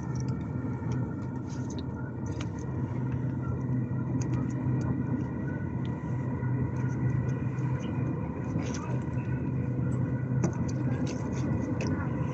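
Steady rumble and hum of an electric train running along the line, heard from inside the carriage, with light clicks and rattles scattered through it.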